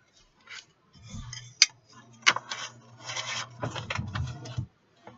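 Ceramic coasters and their cardboard packaging being handled: scraping and rubbing, with two sharp clicks about one and a half and two seconds in.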